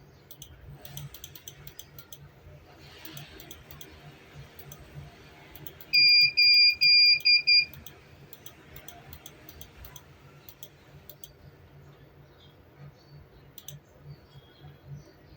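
Electronic beeper giving a quick run of about five short, loud, high-pitched beeps lasting under two seconds, with faint clicking before and after.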